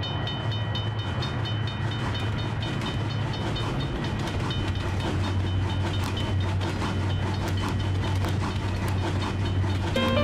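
Sound effect of a steam train running past a level crossing, a steady low rumble with rail clatter, while the crossing bell rings in quick, even strokes. Music comes in right at the end.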